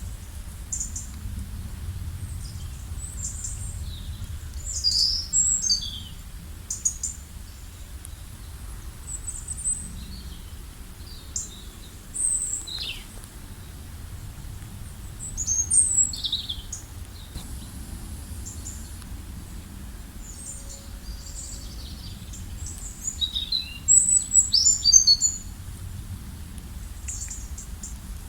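Small birds chirping in short, high calls and trills, in scattered bursts with louder clusters about five seconds in, around sixteen seconds, and near twenty-five seconds. A steady low rumble of environmental noise runs underneath.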